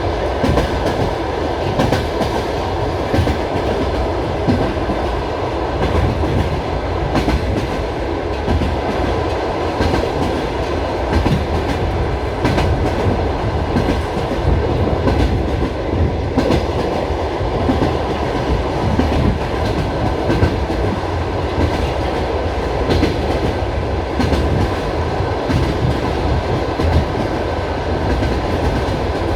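Passenger train carriage running along the track, heard from inside: a steady rumble with the wheels clicking over the rail joints.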